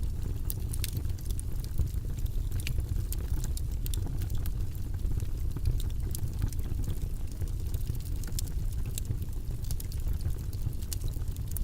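Steady white-noise-style ambience, a deep even rushing rumble, with small irregular clicks scattered through it.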